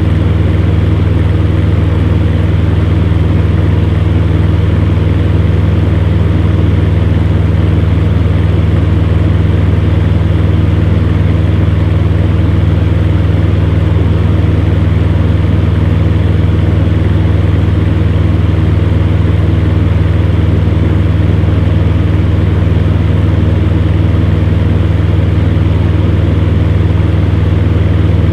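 Electric fan heater running steadily: a low hum with the rush of the fan over it, unchanging throughout.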